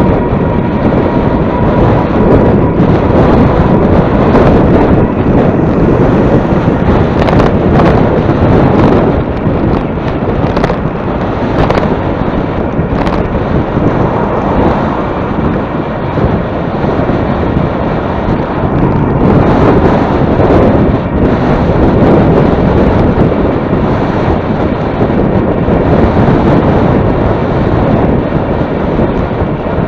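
Heavy wind buffeting the microphone, a loud rushing roar that swells and eases in gusts, typical of moving into a strong headwind.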